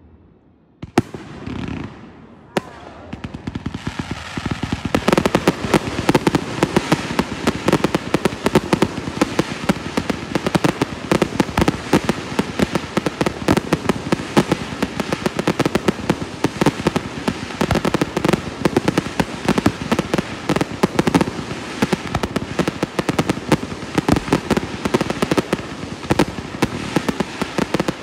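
Fireworks display: a few separate bangs at first, then from about five seconds in a dense, rapid barrage of reports and crackle as many shells and cakes fire together.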